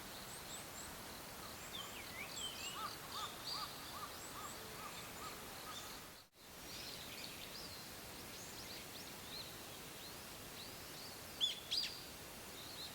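Wild birds chirping and calling over a steady faint outdoor hiss, with a run of about seven quick repeated notes a few seconds in and two louder sharp calls near the end.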